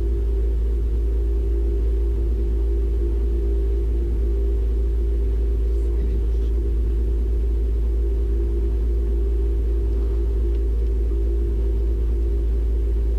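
Rally car engine idling steadily while the car stands still, heard from inside the cabin: a constant low rumble with a steady hum over it.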